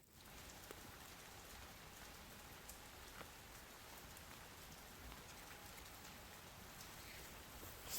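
Faint forest ambience: an even hiss with a few soft scattered ticks.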